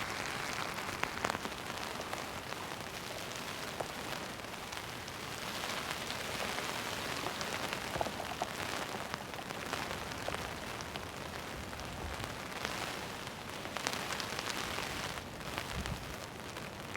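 Heavy rain falling steadily, with many sharp individual drop hits close by standing out from the steady wash.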